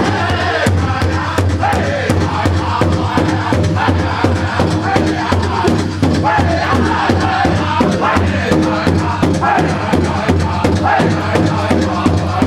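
Powwow drum group singing a high-pitched chant over a steady beat on a big drum, about three strokes a second.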